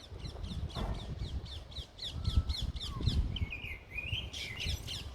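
Young crow calling in a rapid series of short, high, falling chirps, about four to five a second, with a longer, rougher call a little past the middle.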